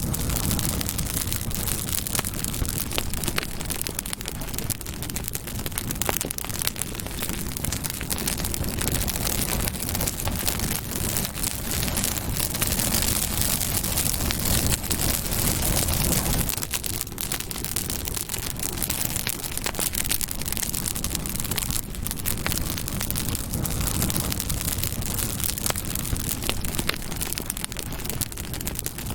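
Campfire burning steadily, with constant crackling and small pops over a low roar of the flames.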